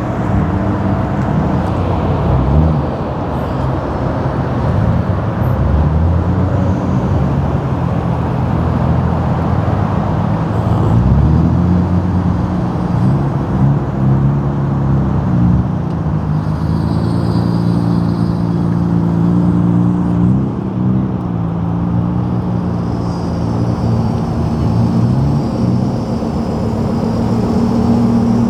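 Several car engines running at once, idling with repeated rises and falls in pitch as they are revved and driven slowly past.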